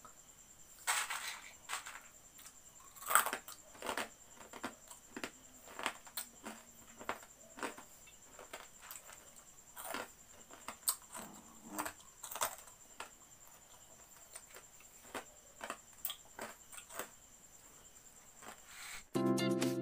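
Crispy fried corn kernels (cornick) crunching as they are chewed: a string of sharp, irregular crunches, the loudest about three seconds in. Guitar music starts near the end.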